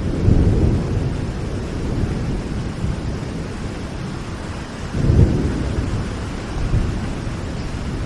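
Steady rain with low rumbles of thunder; the loudest rumble swells up about five seconds in.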